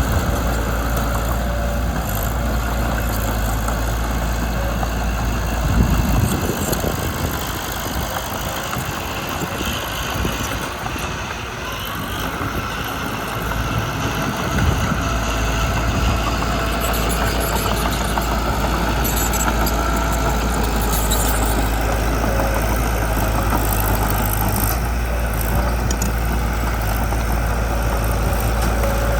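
Small bulldozer's diesel engine running steadily. From about six seconds in, its deep low rumble falls away for about eight seconds, then returns.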